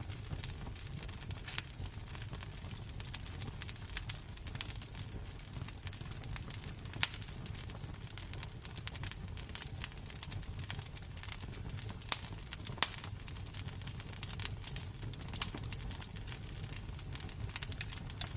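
Wood fire crackling in a fireplace: irregular sharp pops and snaps, a few louder ones, over a steady low rumble of burning.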